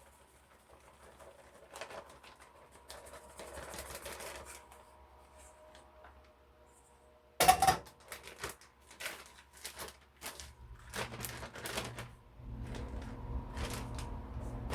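Kitchen handling noises: rustling and light clicks, one sharp knock about seven seconds in, then a run of clicks and clatter. A steady low hum starts about ten seconds in and gets louder near the end.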